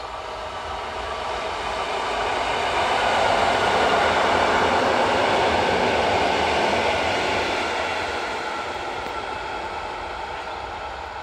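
ED72Ac electric multiple unit passing, the noise of its wheels on the rails swelling to a peak about halfway through and then fading as it moves away.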